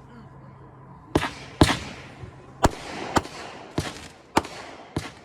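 Consumer firework cake (Hammer and Anvil Secret Stash) firing shot after shot: seven sharp bangs starting about a second in, about one every half second to second, each trailed by a brief hiss.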